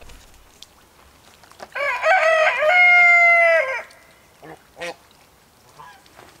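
A rooster crows once, about two seconds in: one long call that steps up in pitch at the start, holds steady, then drops off at the end.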